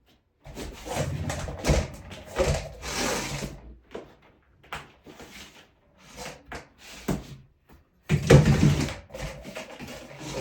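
Heating cable being handled and pressed into a studded plastic Ditra-Heat membrane: irregular bursts of rubbing and scraping with sharp clicks, the loudest stretch near the end.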